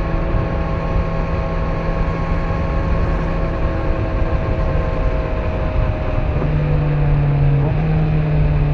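Kawasaki Z900's inline-four engine running at cruising speed over road noise. About six seconds in it grows louder under more throttle, with a short step down in pitch near the end.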